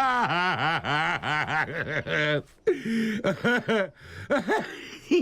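The Gruffalo, a cartoon monster with a man's voice, bursting out laughing: quick runs of repeated laughs, each rising and falling in pitch, in three or four runs with short breaths between them.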